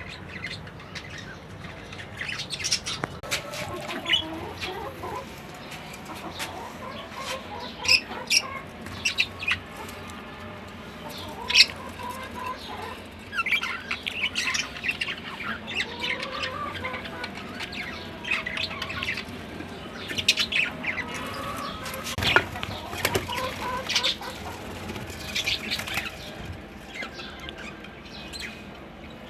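Pet birds calling, with short chirps and squawks scattered throughout and wing flapping.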